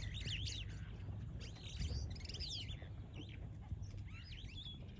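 Small birds chirping in several quick bursts of rapid, rising-and-falling high notes, over a low steady rumble.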